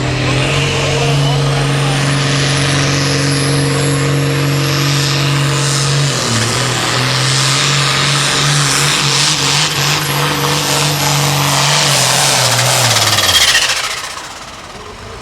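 Turbocharged diesel hot farm tractor at full throttle pulling the sled, with a steady engine note and a high turbo whistle that climbs through the run. Near the end the engine note falls and the sound drops away as the throttle comes off at the end of the pull.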